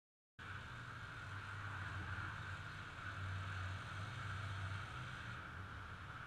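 Heavy diesel truck engine running steadily, with a steady whine above the engine's low drone. The sound cuts in abruptly about half a second in.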